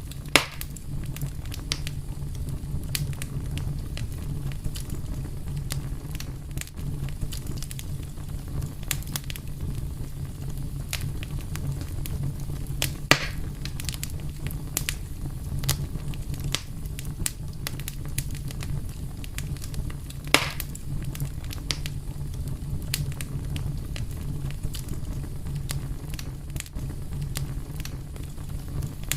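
Wood fire crackling steadily over a low rumble, with scattered sharp pops and three louder snaps: one just after the start, one about thirteen seconds in and one about twenty seconds in.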